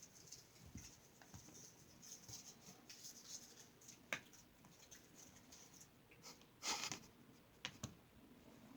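Kittens moving about: faint scratching and light patter, with a louder scratchy rustle about seven seconds in.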